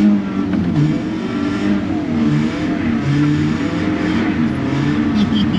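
Car engine driven hard, its pitch climbing and falling again and again as it revs up and eases off.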